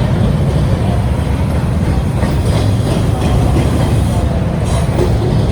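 Double-stack intermodal container cars rolling past, a steady loud rumble of steel wheels on rail.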